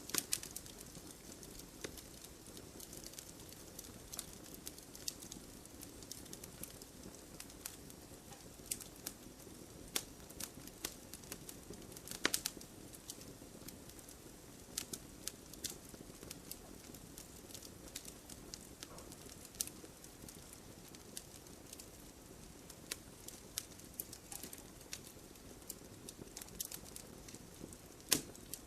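Wood fire crackling in a fireplace: irregular sharp pops and snaps over a soft, steady low rumble of the flames, with a louder cluster of pops about twelve seconds in.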